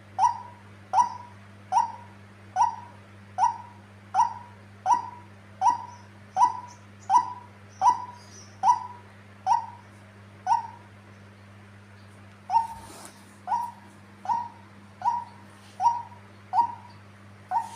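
Female white-breasted waterhen calling: a short, slightly falling note repeated steadily about every three-quarters of a second, with a pause of about two seconds roughly two-thirds of the way through.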